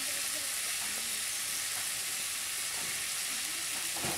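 Chopped mixed vegetables sizzling steadily as they fry in oil in a wok, with one short knock near the end.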